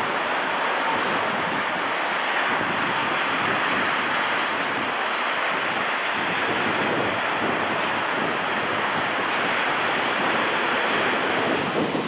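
Jet airliner engines heard as a steady, even rushing noise with no distinct whine, holding level throughout.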